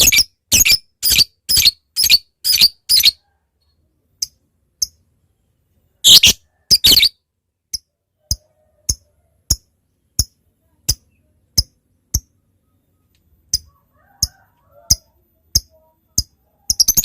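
Lovebird calling: a fast run of loud, shrill squawks, about two a second, then two more, followed by evenly spaced sharp ticking notes, the 'ngetik' call, about three every two seconds, before more squawks near the end.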